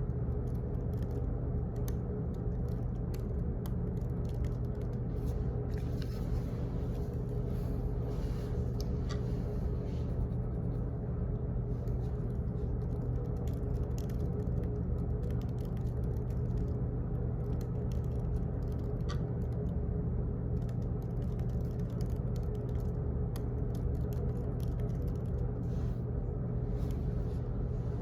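Steady office room hum with small clicks and ticks scattered irregularly over it.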